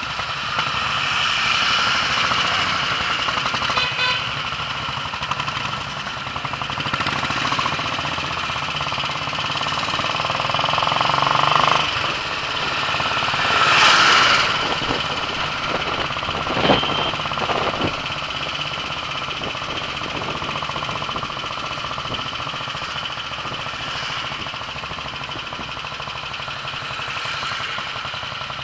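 Royal Enfield single-cylinder motorcycle engine running under way, a rapid steady thumping, with a louder swell of noise about halfway through and a sharp knock shortly after.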